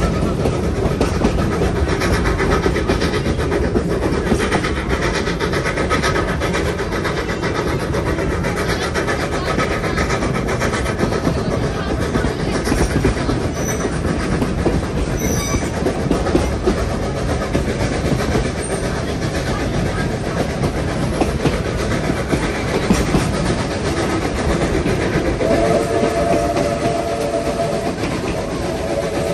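Steam train running along the line, a steady rumble with wheel clatter on the rails. Near the end the steam whistle starts to sound, a held chord of steady tones.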